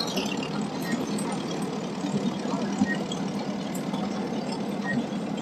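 Vintage tractor engine running steadily at low speed, with a constant low hum.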